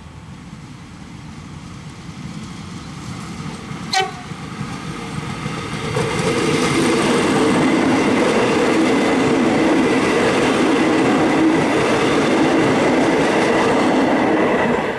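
Electric commuter train approaching and passing close by, its wheels running on the rails. The sound grows louder as it nears, with a brief horn toot about four seconds in. From about six seconds it is loud and steady as the cars go by.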